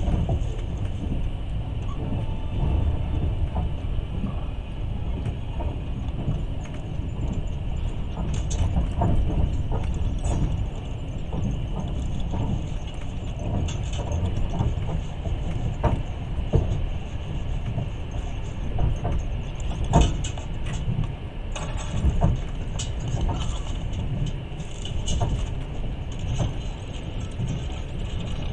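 Passenger train running along the track, heard from inside the carriage: a steady low rumble of wheels on rails with irregular knocks and clicks from the running gear and carriage.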